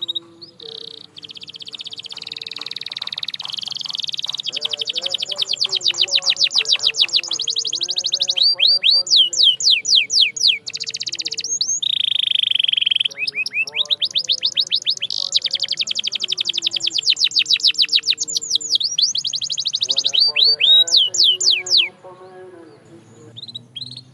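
Domestic canary singing a long, loud song of fast trills, each made of rapidly repeated notes, broken several times by runs of quick downward-sweeping notes. The song falls away near the end.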